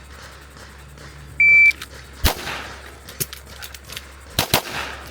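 A shot timer's start beep, a short steady high tone, then pistol shots: one loud shot under a second after the beep, a fainter one about a second later, and a quick pair near the end.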